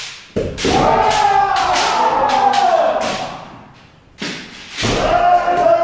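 Kendo kiai: two long, drawn-out shouts, each set off by sharp knocks of strikes, the first about half a second in and the second near the end.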